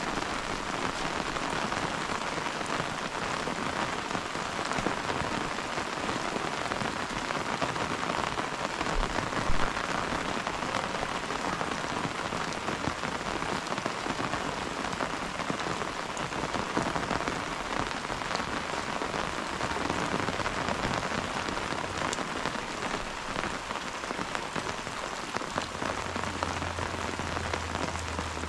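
Steady rain falling, with one sharp knock about nine seconds in and a faint low hum coming in near the end.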